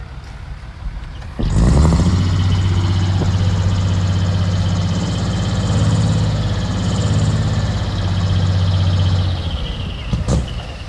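A vehicle engine running at a steady, even pitch, starting abruptly about a second and a half in and dropping away about a second before the end.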